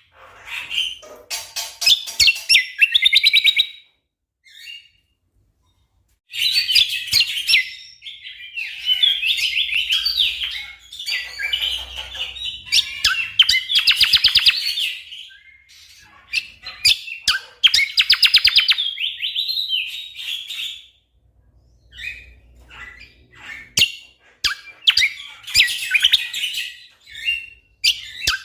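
Greater green leafbird (cucak kombo) singing loud bursts of rapid, fast-repeated chattering notes, broken by short pauses between phrases.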